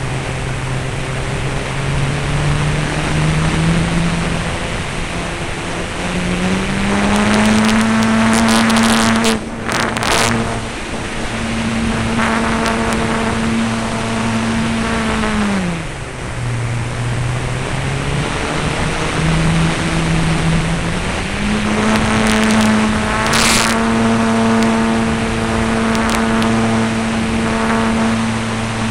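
Radio-controlled F3A aerobatic model airplane's motor and propeller running, its pitch changing with the throttle. It climbs in the first seven seconds, holds high, drops sharply about 16 seconds in, then climbs back about 21 seconds in.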